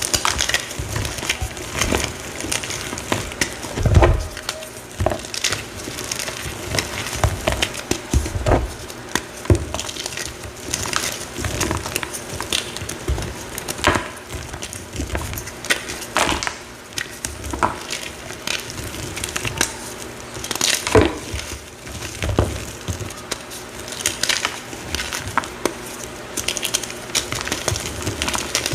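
A pressed, reformed heart-shaped block being crushed and crumbled, giving a continual run of irregular crunches and crackles, with a few louder crunches along the way.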